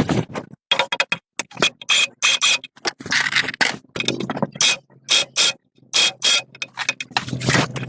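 Short, irregular scraping strokes, several a second, with brief pauses between them, as a hand tool works over a part of an old machine during its repair.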